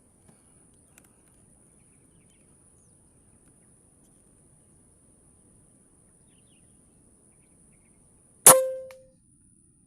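A single air rifle shot firing a slug: one sharp crack about eight and a half seconds in, with a brief ringing tone after it.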